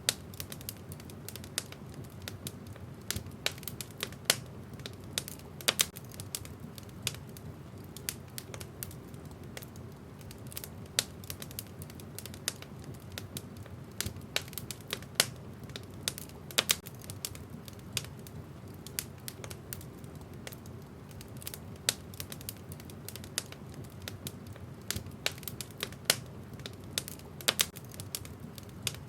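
Wood fire in a fireplace crackling: irregular sharp pops and snaps of the burning logs, sometimes several close together, over a steady low rumble.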